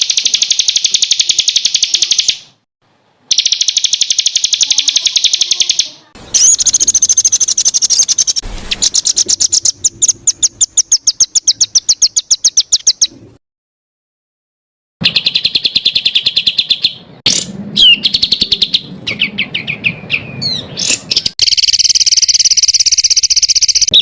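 Small songbird singing fast, rapid-fire trills of the kind bird keepers call 'tembakan': high notes repeated very quickly in runs of a few seconds, cut by two short silences. Near the end the song breaks into varied chirps and quick sweeping notes.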